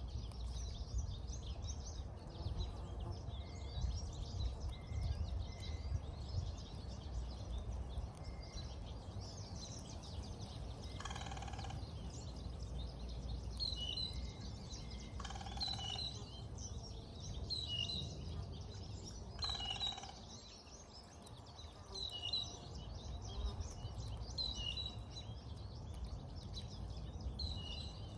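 A crow cawing three times, about four seconds apart, while small birds keep up short, high, repeated chirps. A steady low rumble runs underneath.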